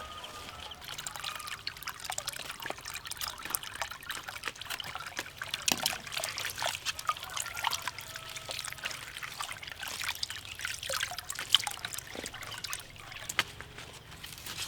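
Water trickling and splashing, with an irregular patter of small clicks and splashes.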